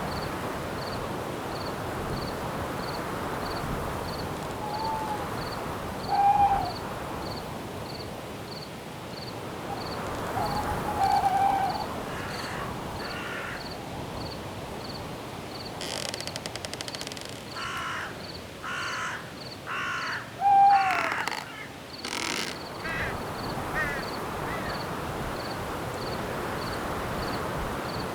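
Night forest ambience: a steady rustling hiss of wind in the trees, with a cricket chirping evenly about twice a second. A bird calls loudly a few times, then gives a run of harsher, rapid calls in the second half.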